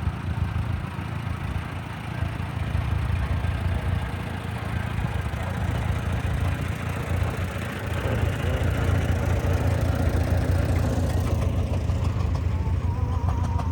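Burrell steam engine running steadily: a constant low rumble with a fast, even beat.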